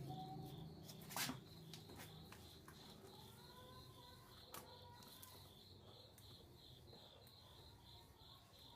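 Near silence: room tone with a faint, high chirp pulsing about three times a second, and a soft click about a second in.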